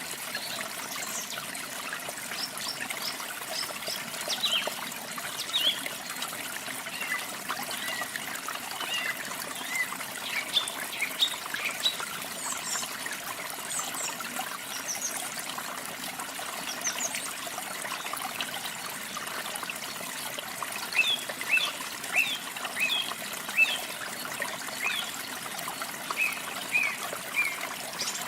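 Steady trickling, running water under birdsong: many short chirps and whistles from several birds, busiest in the last third.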